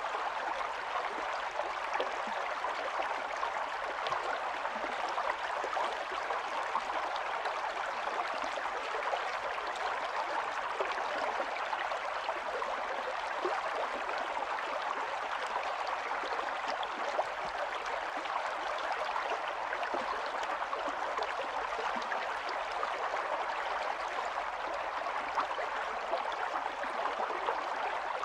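Shallow stream running steadily over stones, a constant rushing with small gurgles and splashes.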